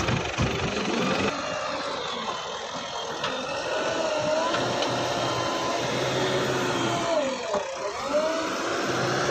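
JCB backhoe loader's diesel engine running under load, its pitch rising and falling several times as the machine works, with a few knocks near the start.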